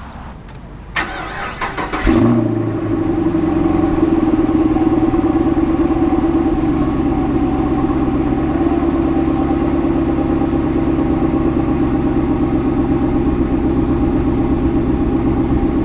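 Chevrolet Camaro engine cranking on the starter about a second in, catching with a brief flare about two seconds in, then settling into a steady idle, heard close to the exhaust tailpipe.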